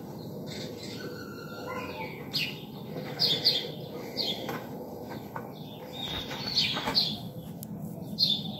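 Birds chirping: short high chirps repeated at irregular intervals over a steady low background hum.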